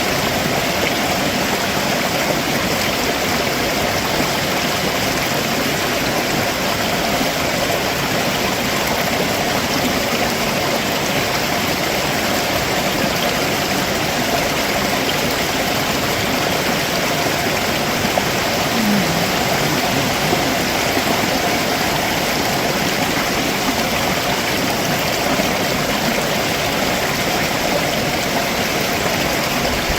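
Stream water rushing steadily over rocks below a waterfall, an even, unbroken rush.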